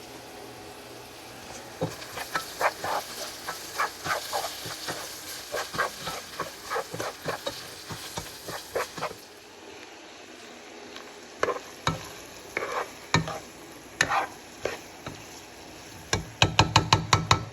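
Spoon stirring ground beef, green pepper and red onion as they sizzle in a pot, with repeated scrapes and knocks against the pot. Near the end comes a quick run of taps, about eight a second.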